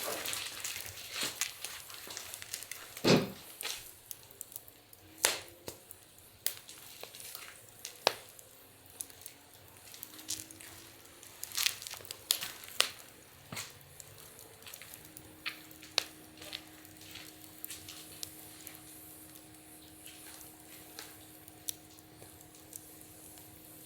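Wood fire burning in a fire pit, crackling with irregular sharp pops and snaps, a few louder than the rest. A faint steady hum joins about two thirds of the way in.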